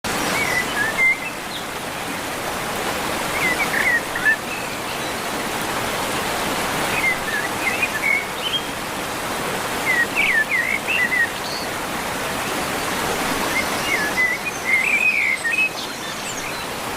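Steady rush of flowing river water, with a bird calling in short chirping phrases about every three to four seconds.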